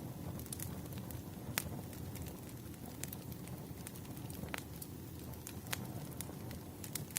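Wood fire burning with a steady low rumble and irregular sharp crackles and pops, the loudest about one and a half seconds in.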